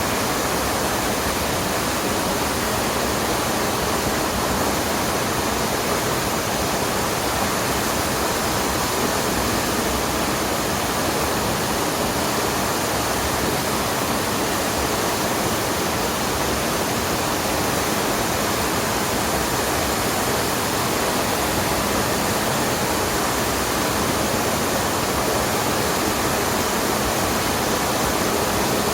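Rushing water of a mountain stream and waterfall: a steady, even wash of water noise.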